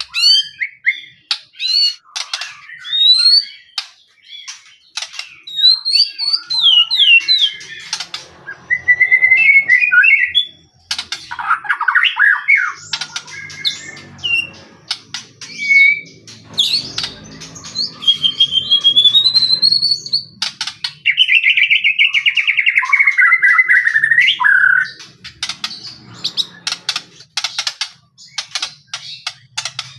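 White-rumped shama (murai batu) in full song: a long, varied run of clear whistled phrases that slide up and down, mixed with rapid clicking notes and harsh rattling phrases, one long buzzy rattle in the second half.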